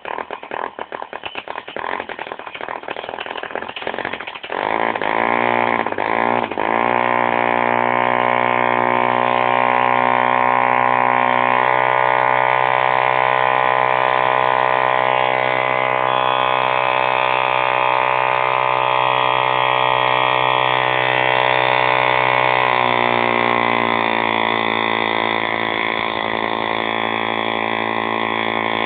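B51 model diesel engine firing unevenly and sputtering, then catching after about four seconds, speeding up and running steadily at high revs with a buzzing tone. Its speed shifts down slightly a couple of times while it runs.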